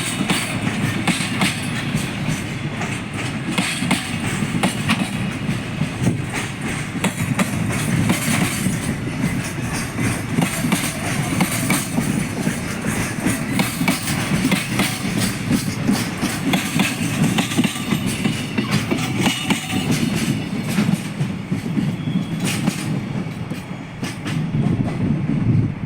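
Freight train rolling past at speed, its wagons' wheels clacking steadily over the rail joints with a constant rumble underneath.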